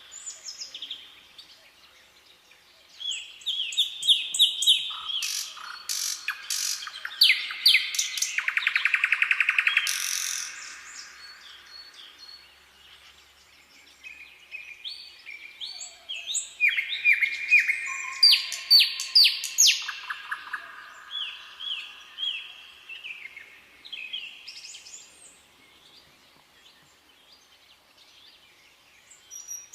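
Songbirds singing in repeated chirping phrases, with a long, fast trill about a third of the way in. The song thins out briefly twice.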